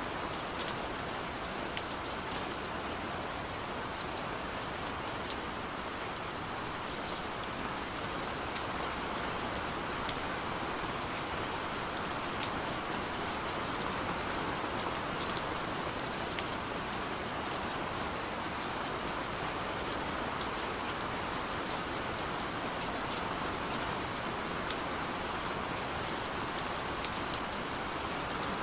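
Steady gentle rain falling, a continuous even hiss with scattered sharper ticks of individual drops hitting a surface.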